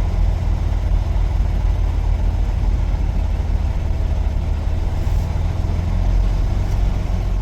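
Semi truck's diesel engine running steadily at low revs, a deep even drone.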